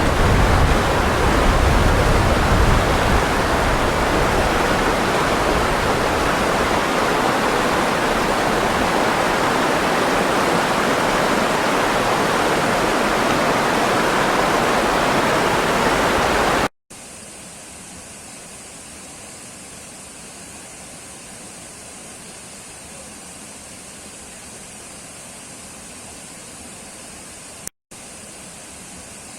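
Steady loud rush of water, like a waterfall, for the first seventeen seconds or so. It cuts off suddenly to a much quieter, even hiss with a thin high edge, broken once by a short gap with a click near the end.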